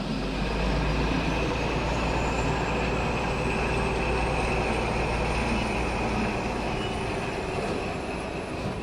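Train running on rails, dubbed in as a sound effect: a steady rumble of wheels with a thin high squeal that slowly rises in pitch, fading slightly near the end.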